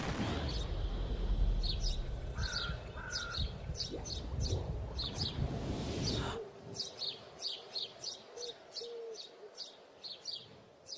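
Birds chirping in quick, repeated short calls, about two a second. A low rumbling noise runs under them for the first six seconds and cuts off abruptly.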